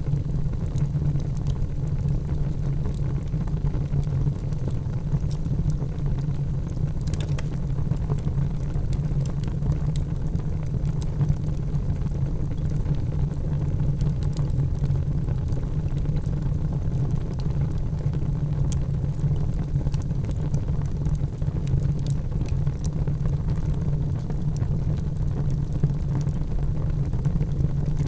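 Wood fire burning in a fireplace: a steady low rumble of flames with sparse, faint crackles and pops scattered through it.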